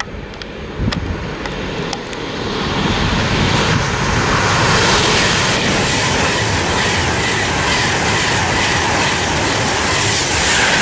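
Virgin Trains Class 390 Pendolino electric train running through the station at speed. It starts with a few sharp clicks, then a rush of wheel and air noise builds and becomes loud and steady from about three seconds in as the carriages go by.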